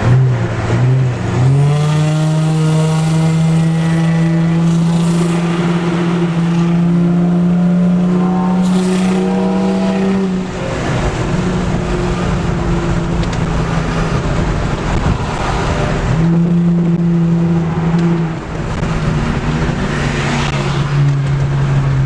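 Car engines revving hard. One engine is held at steady high revs for several seconds, drops off, then is held again briefly, while other engines rev up and down around it.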